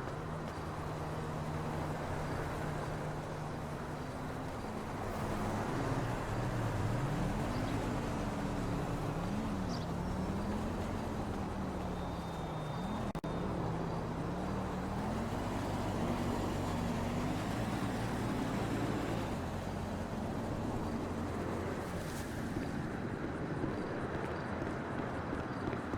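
Car engine idling steadily, then revved up and down repeatedly for about a dozen seconds before dropping back.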